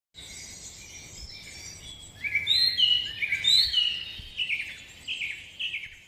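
Birds chirping: faint high calls at first, then from about two seconds in a run of louder, short calls that slide downward in pitch, thinning out near the end.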